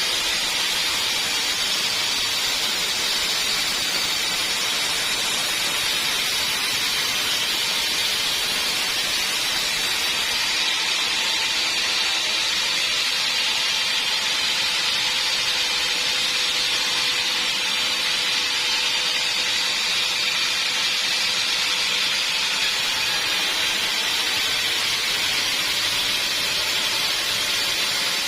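Sawmill band saw running steadily: a constant loud hiss with a faint steady hum underneath, unchanged throughout.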